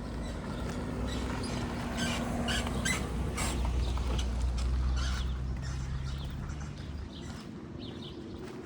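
A motor vehicle's engine passing on the street, growing louder to a peak about four to five seconds in and then fading away, with the walker's footsteps clicking on pavement.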